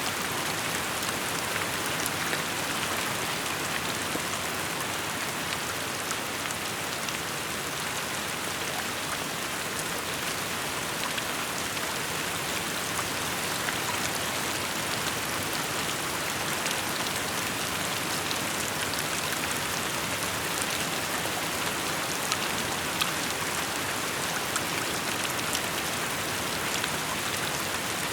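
Steady rainfall: an even hiss of rain with fine, scattered drop ticks, pattering on surfaces.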